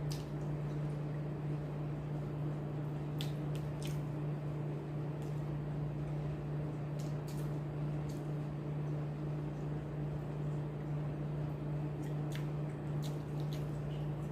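Someone eating rice and sautéed sardines with their hands: soft wet squishes and a few scattered small clicks of chewing and lips. A steady low hum runs underneath throughout.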